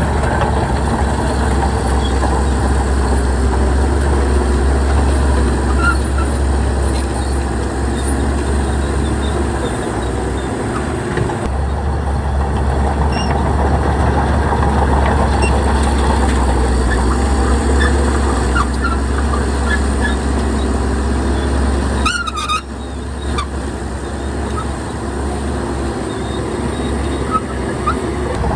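Shantui bulldozer's diesel engine running, a steady low rumble that dips briefly twice, with short high squeaks scattered over it.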